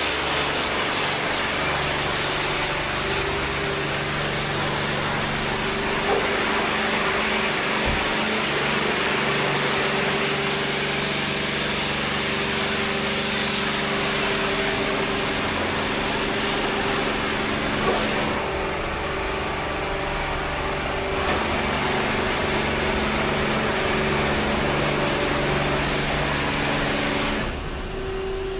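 A car-wash cleaning machine running: a steady motor hum under a loud hiss. The hiss drops away for a few seconds about eighteen seconds in and again near the end, while the hum carries on.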